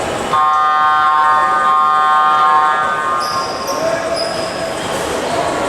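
Arena game horn sounding one steady, harsh multi-tone blast for about two and a half seconds, starting suddenly just after the start, over crowd noise.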